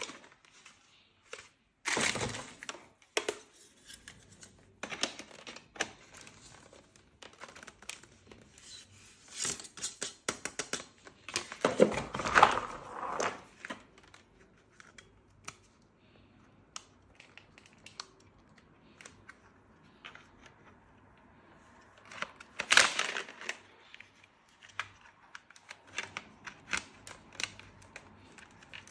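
Packaging handled and opened by hand: intermittent crinkling and tearing with scattered small clicks and knocks, the loudest rustles about two, twelve and twenty-three seconds in.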